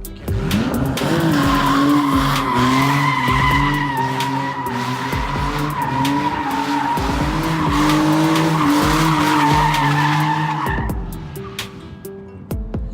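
Car drifting: tyres squealing in one long, steady screech while the engine revs underneath, its pitch rising and falling with the throttle. The squeal fades out near the end.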